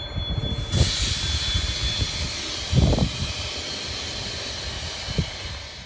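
A loud, steady hiss of escaping air starts suddenly about a second in, over low rumbling with a few heavier thumps.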